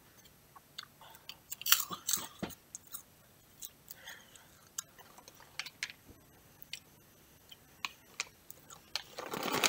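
A person chewing crunchy caramel popcorn with the mouth close to the microphone: irregular short crunches, a few louder ones about two seconds in. Near the end the popcorn bag crinkles.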